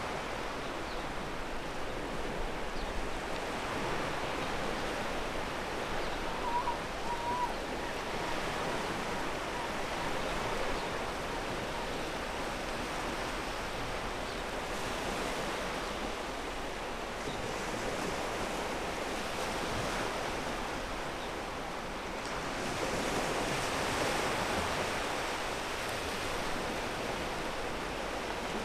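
Sea waves breaking and washing up a pebble beach: a continuous rush of surf that rises and falls gently, with a bigger wave swelling up about three-quarters of the way through.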